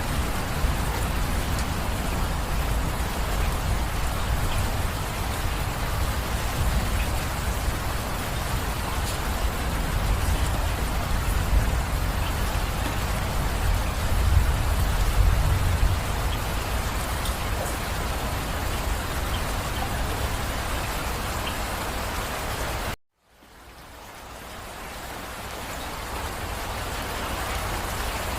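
Steady heavy rain falling, with a low rumble beneath it. Near the end the sound cuts out abruptly for a moment, then fades back in with the low rumble gone.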